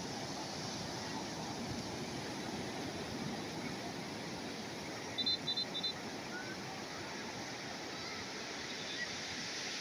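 Calm sea waves washing steadily on the shore, with three short high chirps about five seconds in.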